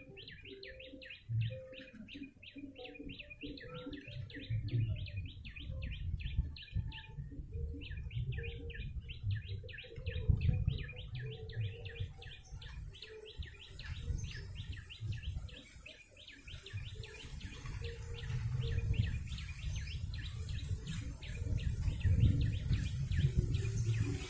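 Prenjak lumut calling: a fast, even run of sharp chirps, about six a second, that breaks off briefly around seven seconds in and then carries on, over a low rumble.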